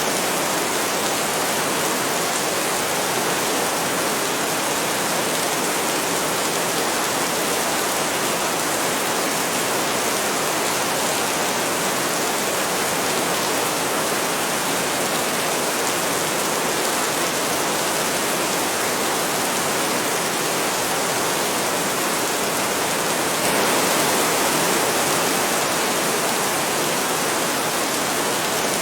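Heavy rain falling steadily as a dense, even hiss, swelling slightly about 24 seconds in.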